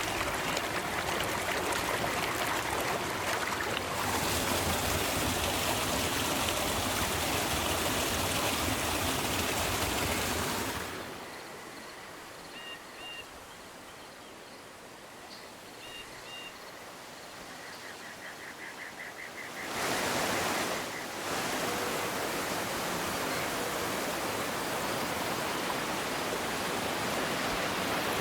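Rushing river water, a steady full hiss. Partway through it drops away for about nine seconds to a much quieter stretch where small birds chirp and twitter, then the rushing water comes back at full level.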